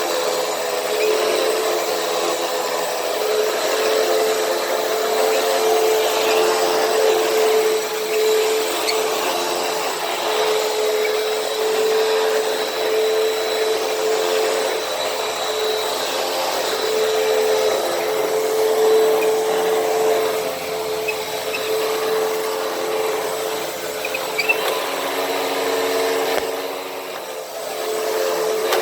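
Hoover WindTunnel T-Series upright vacuum cleaner running steadily, a constant motor whine over the rush of suction noise. The sound briefly dips in level shortly before the end.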